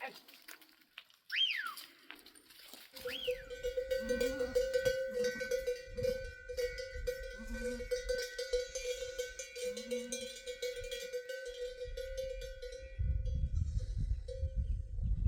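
A livestock bell jangling steadily for about ten seconds, starting a few seconds in, after two short rising-and-falling whistles.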